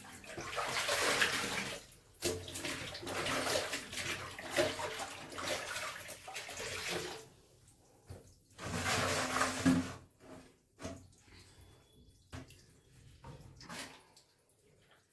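Water splashing and sloshing as clothes are washed by hand, in a long stretch and then a shorter one, followed by scattered drips and small knocks.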